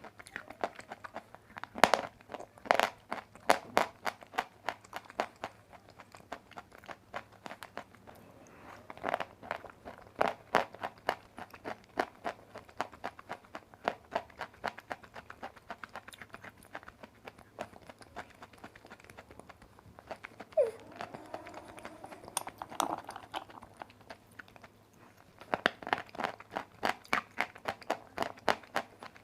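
Dry white clay or chalk being bitten and chewed close to the microphone, a fast run of sharp, dry crunches. The crunching is heaviest near the start and near the end, with a quieter, sparser stretch in between.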